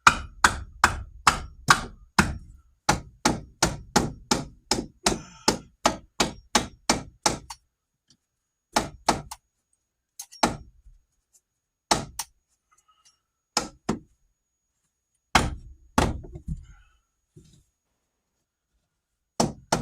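Hammer tapping a fastener that did not sink fully into plywood: a quick run of about twenty even strikes, about three a second, then a handful of single blows a second or two apart.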